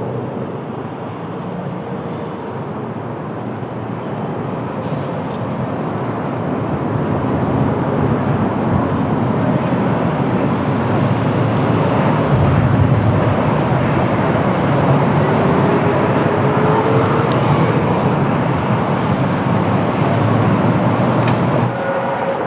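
Jet airliner on final approach in strong wind, its engine noise growing louder over about ten seconds and then holding.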